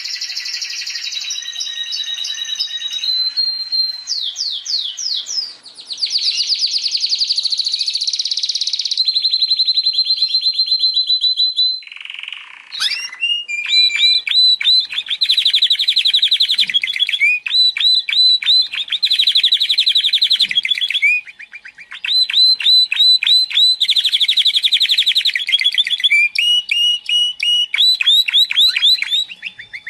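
Domestic canary singing a long, varied song: fast trills and quick runs of repeated notes, broken by a short pause about twelve seconds in and another near twenty-one seconds.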